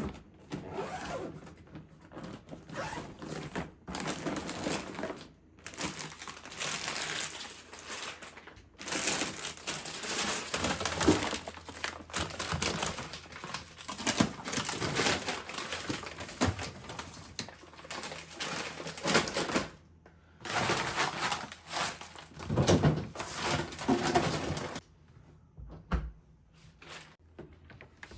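Rustling and crinkling of food packaging and plastic bags being handled, with scattered small knocks, in stretches that stop abruptly several times.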